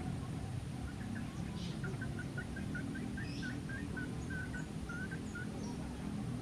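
A bird calling a run of about a dozen short chirps, roughly three a second, that stop shortly before the end, over a steady low rumble.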